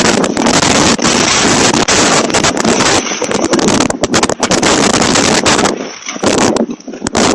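Storm-force wind buffeting a Ring security camera's microphone, with a loose plastic garden furniture cover flapping and snapping sharply in the gusts. The gust eases briefly about six seconds in, then picks up again.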